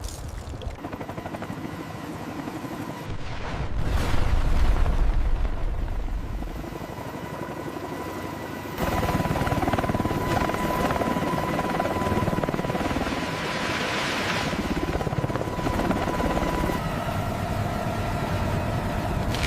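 Steady helicopter rotor and engine noise, a low continuous rumble that swells a few seconds in and then steps up abruptly to a louder, fuller drone about nine seconds in, with a thin steady whine running through it.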